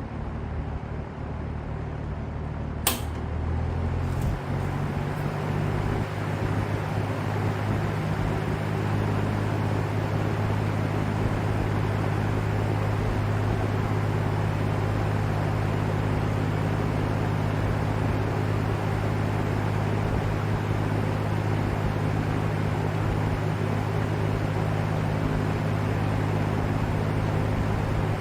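Vintage LAU Ultra Twenty 20-inch box fan running; a switch clicks about three seconds in and the fan speeds up, its hum rising in pitch and getting louder over a couple of seconds, then running steadily with a whooshing air noise.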